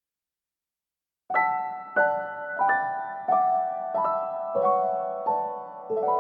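Background piano music starting about a second in: a slow, gentle melody of single notes, each struck and left to ring and fade.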